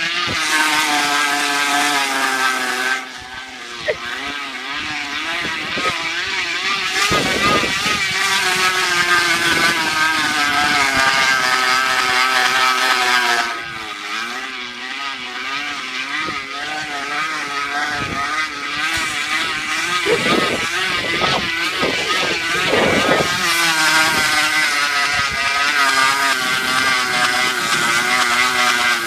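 A bicycle rigged to sound like a dirt bike, giving a buzzing, motorcycle-like drone whose pitch wavers and rises and falls with speed. It drops away briefly twice, about three seconds in and again near the middle.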